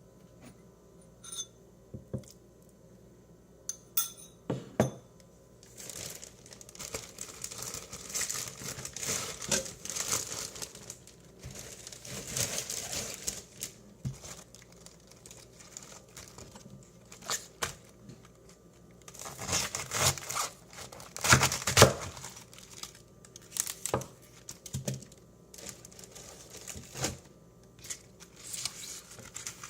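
Crinkly material handled and torn in bursts, with a few light clicks and taps in the first few seconds.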